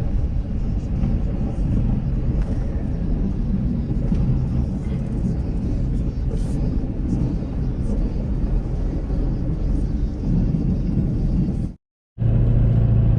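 Ford 6.7-litre Power Stroke diesel pickup running under way, a steady low rumble heard from inside the cab. The sound cuts out briefly near the end and comes back as a steadier engine drone.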